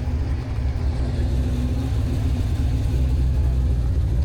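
Car engine running nearby: a steady low rumble that grows a little louder about a second in.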